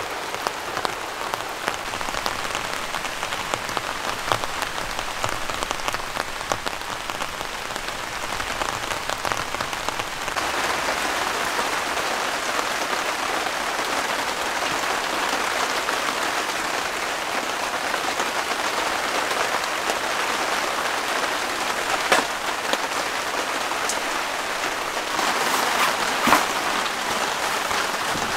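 Rain falling steadily on a tent, heard from inside. It becomes slightly louder about ten seconds in, and two sharp taps come in the last several seconds.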